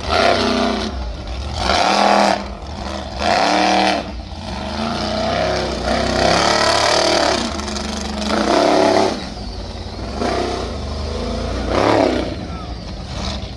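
Monster truck engine revving in repeated loud surges, the pitch rising and falling, over a steady low rumble.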